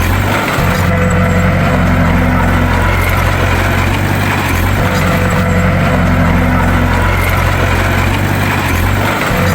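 Bulldozer's diesel engine running steadily with a deep hum, its note shifting in a pattern that repeats about every four and a half seconds.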